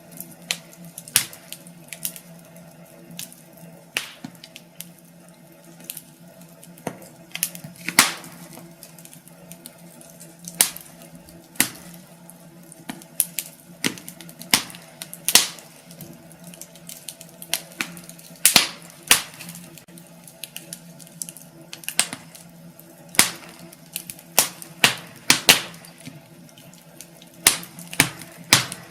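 Wood fire crackling in a fireplace: irregular sharp pops and snaps, some much louder than others, over a steady low background.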